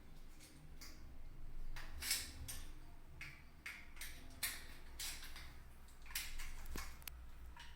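Hand tools scraping and clicking on metal in about a dozen short, irregular strokes as a metal bracket is worked off a replacement washing-machine part.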